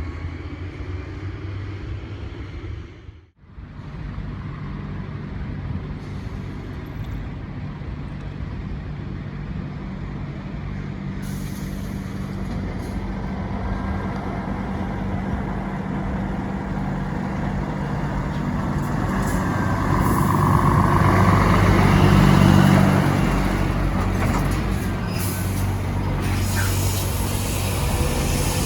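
Heavy truck engine running as a truck passes close by, a steady low hum that builds to its loudest a little past two-thirds of the way in and then fades, after a brief cut near the start.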